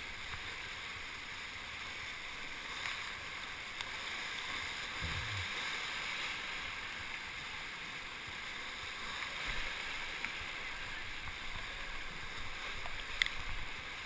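Kaweah River whitewater rushing past the raft in a steady hiss, with a few faint knocks, the clearest near the end.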